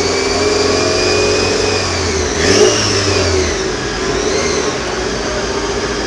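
Mitsubishi Lancer Evolution's engine running at low revs, around two thousand rpm, as the car rolls slowly on a chassis dyno. A brief rise and fall in pitch comes about two and a half seconds in.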